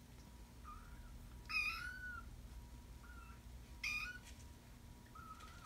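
Kitten meowing: a series of short, high calls, the two loudest about one and a half and four seconds in. The meows are an annoyed protest at having his legs handled, which the fosterer takes for a leave-me-alone meow rather than one of pain.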